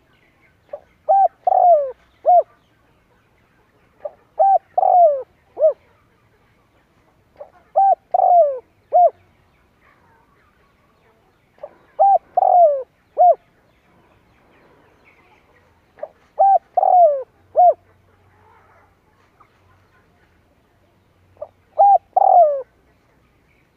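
Spotted dove (chim cu gáy) cooing its song: a short phrase of about four falling coos, repeated six times at roughly four-second intervals.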